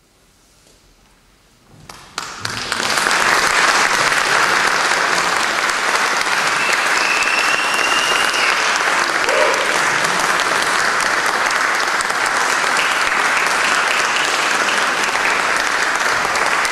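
Audience applause that breaks out about two seconds in after a quiet moment, then continues as steady clapping.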